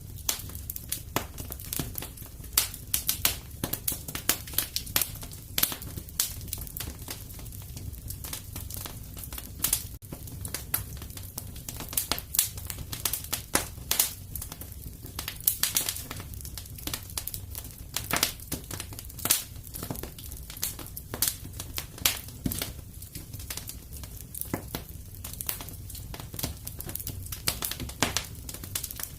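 Fire in a fireplace crackling: a dense, irregular run of sharp pops and snaps over a low steady rumble.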